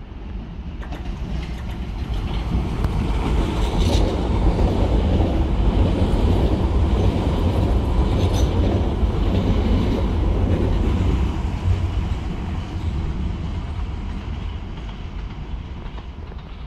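London Underground Piccadilly line train (1973 stock) running through the station at speed without stopping: a rumble that builds as it approaches, is loudest as it passes and then fades, with two sharp clicks about four and eight seconds in.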